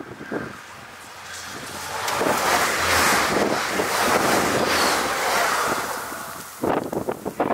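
A Stadler Flirt multiple-unit train passing at speed, its rushing noise swelling, holding for a few seconds and fading away. Wind buffets the microphone near the end.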